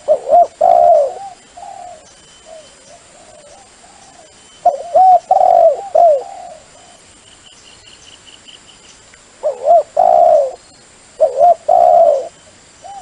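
Dove cooing: four loud groups of arching coos, each about a second long, with fainter coos between them. It is a dove call recording used as a lure for decoy trapping of doves.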